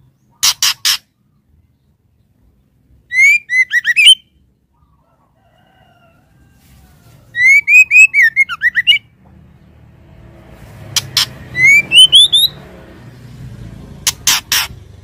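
Female white-rumped shama calling: quick sets of three harsh, dry notes alternate with short phrases of bending, upslurred whistles. A low rumble builds behind the calls in the second half.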